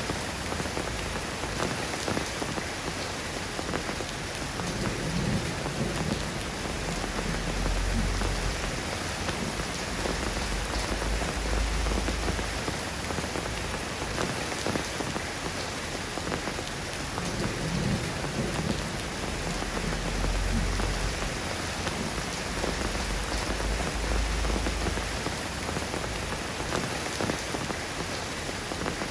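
Steady rain falling and pattering on surfaces, with low rumbles of distant thunder swelling and fading several times.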